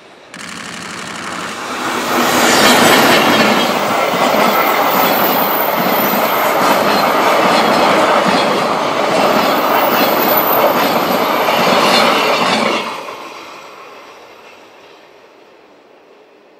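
Freight train hauled by an EH500 electric locomotive passing close by: a sudden rise as the locomotive goes past, then a long run of container wagons with wheels clacking over the rail joints. The sound falls away over a few seconds after the last wagon, about thirteen seconds in.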